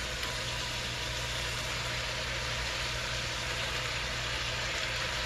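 Chopped onion and freshly washed greens frying in olive oil in a stainless pot: a steady sizzle, with a low steady hum underneath.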